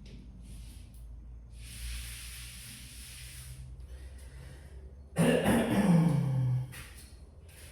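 Paint roller rubbing across a wall in strokes, a soft hiss. About five seconds in comes a louder, short vocal sound from a person, falling in pitch, like a throat-clearing grunt.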